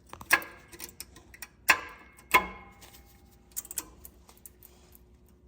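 Metal clinking as a brake pad with its shim is seated into the spring-steel hardware clips of a rear brake caliper: three sharp clinks with a short metallic ring in the first two and a half seconds, then a few lighter ticks.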